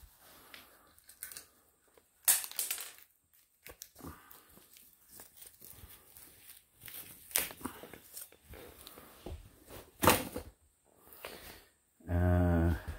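Handling noise from taking apart an old wall outlet: scattered clicks, knocks and rustling of screws, plates and debris. Near the end comes a loud, steady buzz that lasts under a second.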